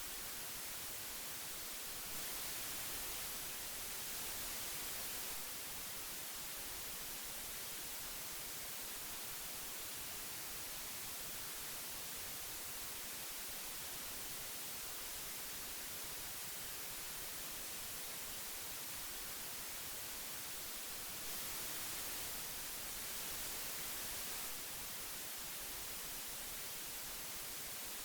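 Steady hiss of old magnetic tape, mostly in the treble. It grows slightly louder twice for about three seconds, about two seconds in and again about 21 seconds in.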